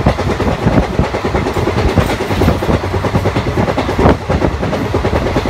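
Indian Railways passenger coach running at speed, heard from the doorway: loud, continuous rattle and clatter of wheels over the rails and track joints.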